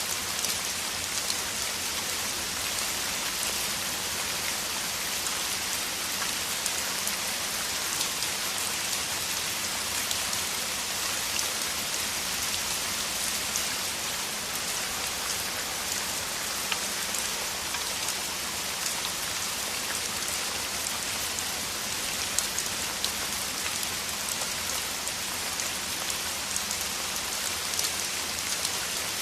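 Steady downpour of heavy rain: an even hiss dense with the ticks of individual drops striking surfaces, holding at a constant level throughout.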